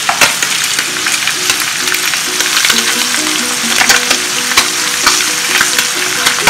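White sardine pieces shallow-frying in coconut oil: steady sizzling with many small pops and crackles of spattering oil, and a sharp knock of the slotted spoon against the pan just after the start.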